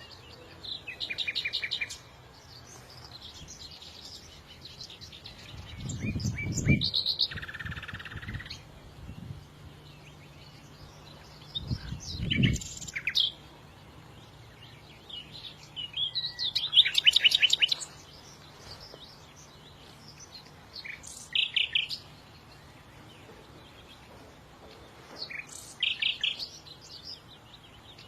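Songbird singing in short phrases of rapid high trills and chirps, coming every few seconds with quiet gaps between. Two brief low rumbles come about six and twelve seconds in, over a faint steady hum.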